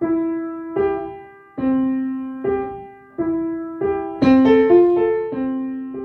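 Piano playing a slow melody, single notes struck one after another and left to ring and fade. About four seconds in the notes come louder and closer together, several sounding at once.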